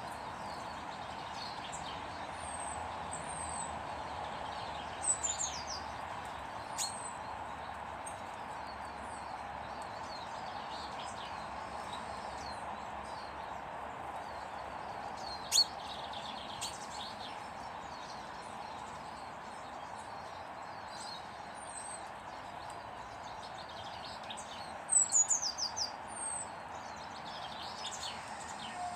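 Small garden birds calling in short runs of high, falling chirps, once about five seconds in and again near the end, over a steady background noise. A single sharp click comes about halfway through.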